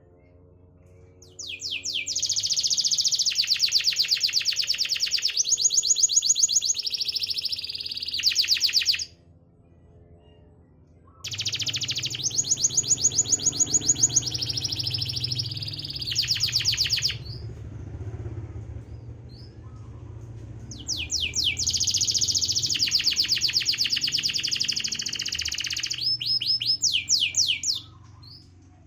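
Domestic canary singing in three long phrases of rapid trills and rolls, each several seconds long and cut off sharply, with short gaps between. It is a trigger song played to spur canaries that are slow to sing.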